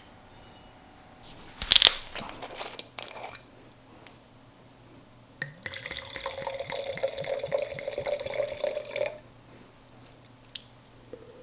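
Kitchen work sounds: a sharp clatter about two seconds in, then about three seconds of liquid running or being poured that stops abruptly.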